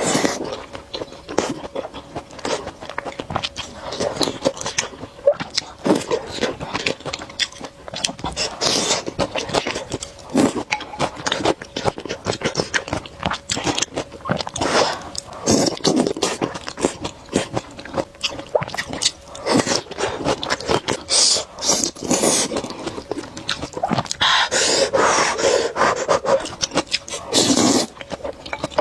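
A person eating noodles close to the microphone: chewing and wet mouth clicks throughout, with several longer slurps.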